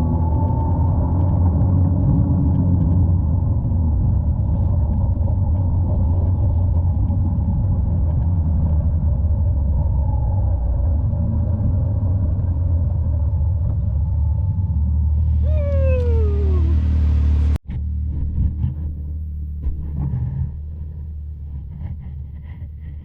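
Off-road side-by-side (UTV) running, with a steady low engine and drivetrain rumble. About sixteen seconds in, a pitched whine falls as the machine slows. The sound cuts off abruptly just after, then continues quieter and fades.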